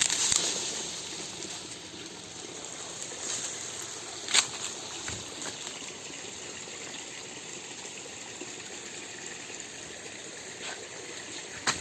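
Steady rush of flowing mountain-river water, a little louder in the first second, with a few short knocks or rustles, the sharpest about four seconds in.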